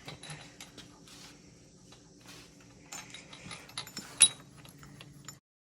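Scattered light clicks and taps of tools and engine parts being handled, with one sharp click about four seconds in. The sound cuts off abruptly just before the end.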